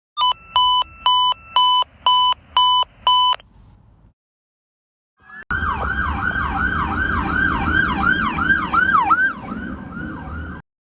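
Fire engine's electronic siren. It first sounds a fast two-note high-low pattern for about three seconds. After a gap of about two seconds it comes back as a rapid cycling yelp, about three sweeps a second, over the low rumble of the truck.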